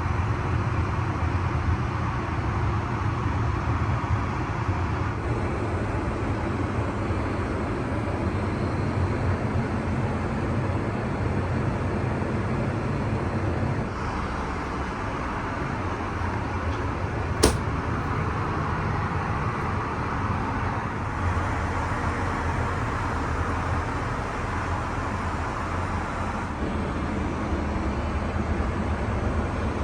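Steady low rumble and rushing air noise inside an Airbus A380 airliner cabin, shifting abruptly a few times where shots are joined, with a single sharp click a little past halfway.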